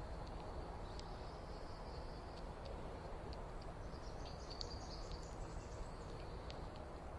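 Faint outdoor ambience: a steady low rumble with scattered short high chirps and ticks from small birds, plus a faint thin high hiss.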